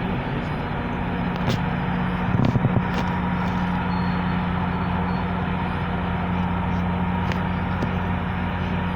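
GO Transit diesel locomotive running steadily at the station, with a constant low hum and a few sharp clicks, the loudest about two and a half seconds in.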